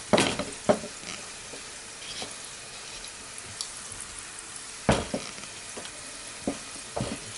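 Green plantain pieces shallow-frying in oil in a frying pan, a steady sizzle, with a few sharp clicks and knocks of the spatula and tongs against the pan, the loudest about five seconds in.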